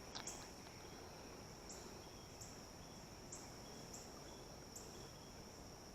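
Faint insect calling: a steady high-pitched trill with slightly louder pulses about once a second.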